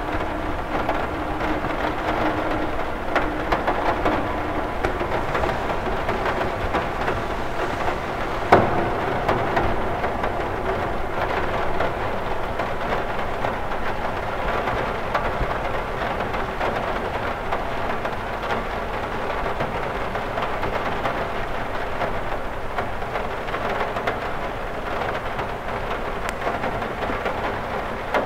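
Steady rain on a cathedral window, a dense patter of drops on the glass, with one sharper tap about eight seconds in.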